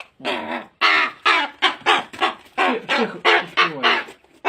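A bird calling over and over in short pitched calls, about three a second.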